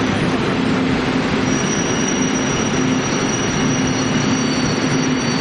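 Chu-Kuang Express passenger coaches rolling along the platform with a steady rumble from the wheels and rails. A thin, high wheel squeal comes in about one and a half seconds in and holds almost to the end.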